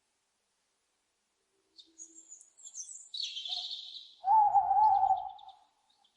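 High chirps of small birds, then about four seconds in an owl's wavering call lasting about a second, the loudest sound.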